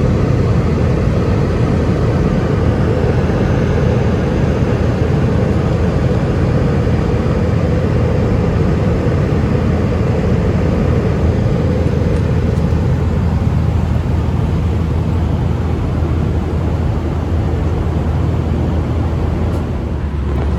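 Airbus A320 engines and airflow heard from inside the passenger cabin as a loud, steady rush with a deep low hum, easing slightly near the end.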